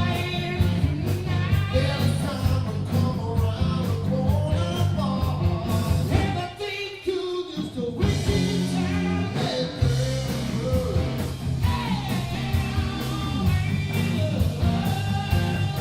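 Southern rock song with a singing voice over electric guitar, bass and drums. The band thins out briefly about six seconds in, and the bass comes back in full a few seconds later.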